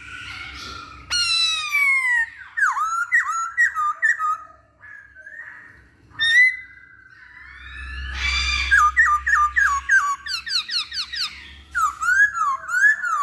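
Poksay Hongkong laughingthrush singing a loud, varied song. It mixes long falling whistles, quick runs of short downslurred notes, rising sweeps and some harsher notes, with brief pauses.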